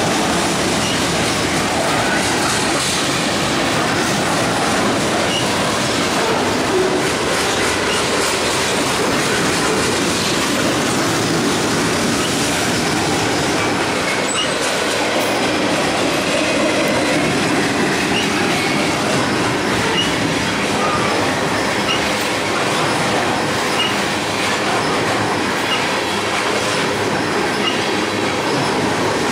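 Freight cars of a long mixed freight train rolling past close by: a steady rumble and clatter of steel wheels on the rails, with a few brief high wheel squeals.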